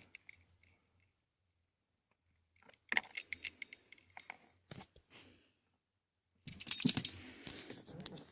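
Small hard objects being handled: clusters of clicks and taps with scratchy rustling, in two bursts, the second louder and denser, with a quiet gap between.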